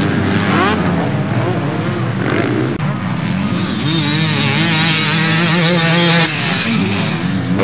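Several motocross bikes racing, their engines revving up and down over one another as they run the track.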